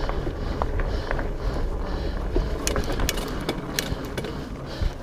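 Fat bike riding over rocky singletrack: steady wind rumble on the mic with irregular clicks, knocks and rattles from the tyres and frame going over rough ground.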